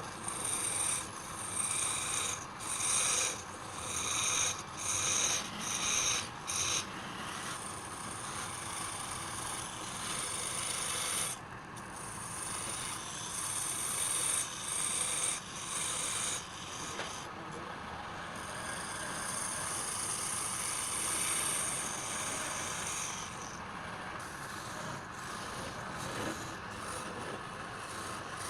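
A workpiece spinning on a wood lathe, with a hand-held tool rubbing and cutting against the wood. For the first seven seconds this comes in short passes, about one a second, then it runs as one steady cut.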